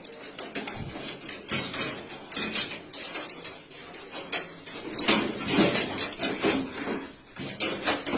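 Irregular clatter of hard objects knocking and clinking together, many quick knocks in a row, busier in the second half.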